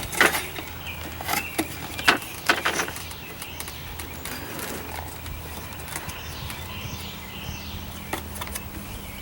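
Sharp little clicks and knocks of carburetor parts being handled and pushed into place by hand, several in the first three seconds and a couple more near the end.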